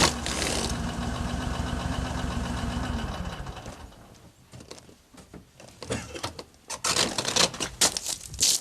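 A vehicle engine idling steadily, then winding down and stopping about three seconds in. Irregular crunching and crackling sounds follow near the end.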